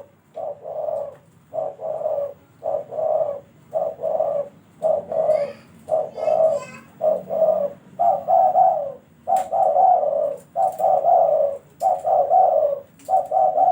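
A dove cooing over and over, about one short low coo phrase a second, with brief gaps between the phrases.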